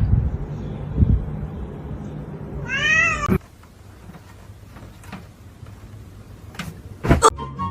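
A domestic cat gives one wavering meow about three seconds in, over a low rumble with a couple of soft thumps. Then the sound drops quieter and two sharp knocks come near the end.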